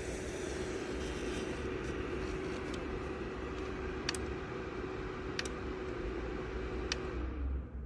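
Fan of a GAIATOP 1000W ceramic space heater blowing with a steady hum and hiss, broken by three sharp clicks about a second and a half apart. After the last click the fan winds down, its hum falling in pitch and the hiss fading near the end.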